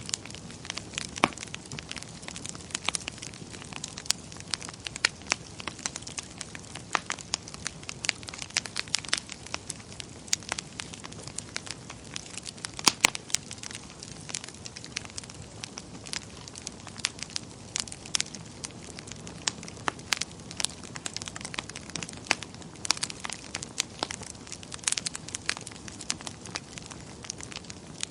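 Wood fire burning in a fireplace: a steady soft hiss with irregular crackles and pops, a few louder snaps about halfway through.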